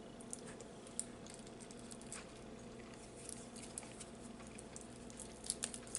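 Quiet room with a steady faint hum and a few soft, scattered clicks, the clearest about a second in and a small cluster near the end.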